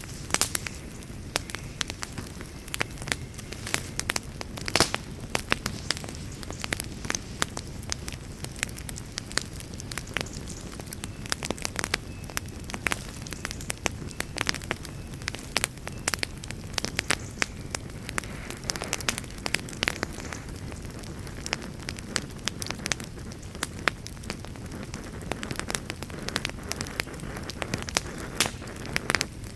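Wood campfire crackling: many sharp, irregular pops and snaps over a steady low rush.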